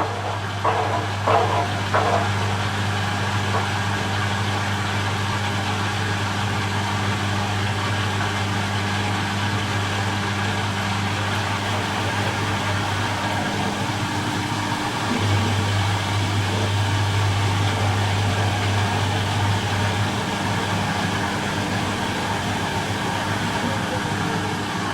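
Miele Little Giant PWM 507 commercial washing machine on its 500 rpm intermediate spin, a steady motor-and-drum hum. There are a few short knocks in the first two seconds, and the low hum swells for several seconds near the middle.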